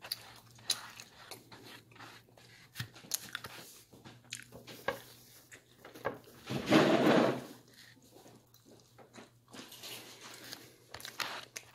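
Pizza being bitten and chewed close to the microphone, with small crunches and mouth clicks scattered throughout. About halfway through, a louder noisy sound lasts about a second.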